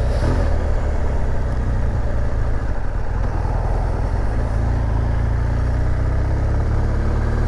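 BMW R1200GS boxer-twin motorcycle engine running steadily at low road speed.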